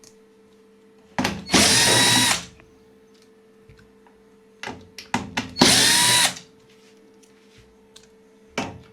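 Cordless screwdriver backing out the screws of a washing machine's front panel: two short runs, each spinning up and winding down, with small clicks and knocks of the bit and panel between them.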